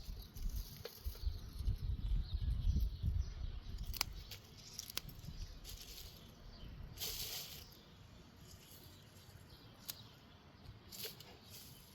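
Wind buffeting the microphone in gusts, strongest in the first few seconds and then easing. A few sharp clicks and a brief rustling hiss near the middle come over it.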